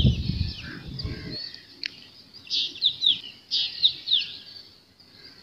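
Small birds chirping: clusters of quick, high, falling notes, busiest about two and a half and four seconds in. A low rumble underneath stops after about a second and a half.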